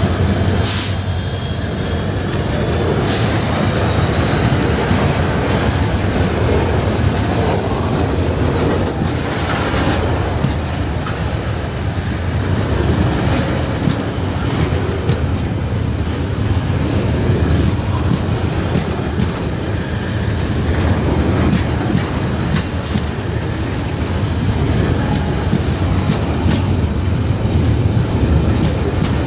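Coal hopper wagons of a long freight train rolling past at close range: a steady rumble with sharp wheel clicks and knocks over the rail joints. A faint high wheel squeal runs through the first two-thirds.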